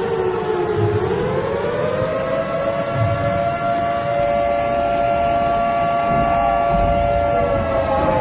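Outdoor warning siren wailing: its pitch dips about a second in, rises and holds steady, then begins to fall again near the end.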